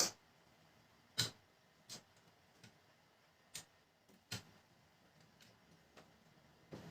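Plastic printer cover panels being handled and fitted back on, giving about six sharp clicks and light knocks at irregular intervals.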